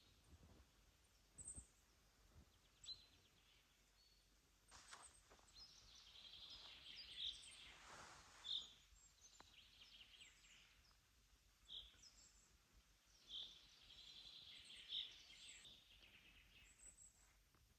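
Faint songbird calls: scattered short high chirps, with two longer trilled phrases, one around the middle and one later on.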